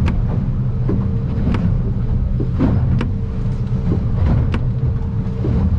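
Boat's outboard engine running steadily under way, heard from inside the cabin, with frequent sharp knocks and rattles as the aluminium hull bounces through rough swells.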